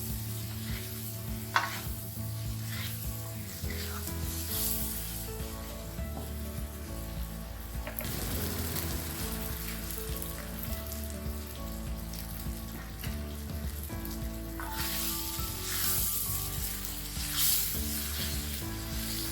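Food frying in hot oil and ghee in a wok, sizzling steadily as it is stirred, the sizzle swelling louder near the end. Soft background music plays underneath.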